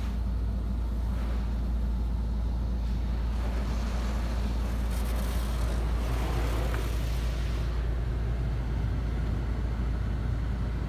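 Touchless automatic car wash heard from inside the car: a steady low hum, with a hiss of spray on the car that swells from about four to eight seconds in.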